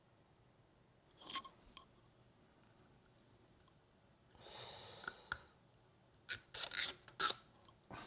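Small plastic product packaging being handled and opened: a short scrape about a second in, a longer scraping rub about four and a half seconds in, then a quick run of scrapes and clicks near the end.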